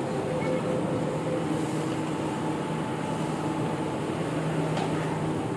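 Steady hum of an MRT Jakarta train carriage, machinery and ventilation running, with a few faint steady tones through it.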